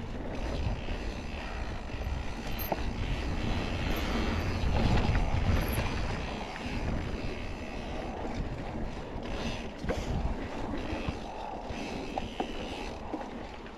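Mountain bike riding along a dirt trail: steady tyre and bike noise with a few small clicks, mixed with wind rumbling on the microphone, loudest about four to six seconds in.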